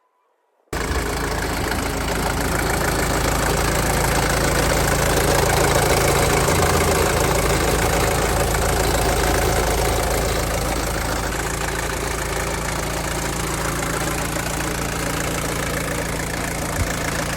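Car engine idling steadily; the sound cuts in abruptly under a second in.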